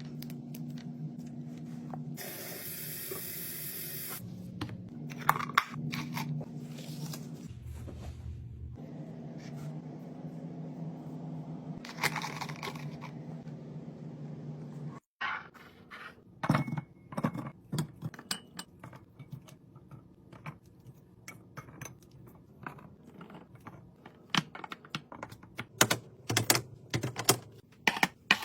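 Drink cans and bottles being handled and set into a fridge, with quick clicks, clinks and knocks of containers on shelves and each other. In the first half a steady low hum runs under it, with a short hiss about two seconds in; after a break about halfway the clicks come thick and fast.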